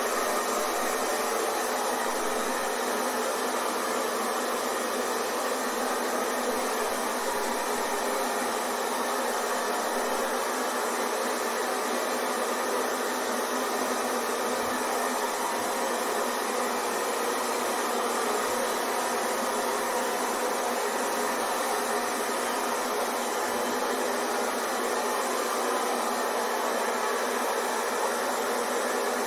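Hair dryer running continuously: a steady, even rush of air with a faint motor whine, unchanging throughout.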